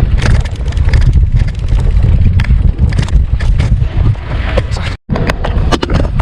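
Wind buffeting the microphone: a loud, irregular low rumble with scattered clicks, cut by a sudden brief dropout about five seconds in.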